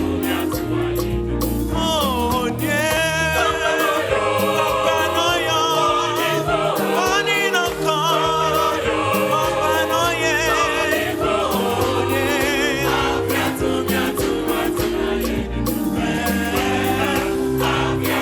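A gospel choir singing with vibrato over a band with bass, keyboard and a steady beat.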